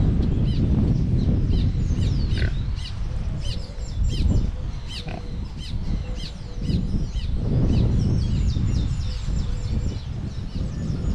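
Pig grunting and snuffling, with many small birds chirping quickly over it.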